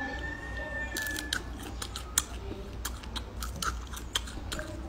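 Crisp, irregular crunching and crackling as teeth bite into and chew a deep-fried centipede.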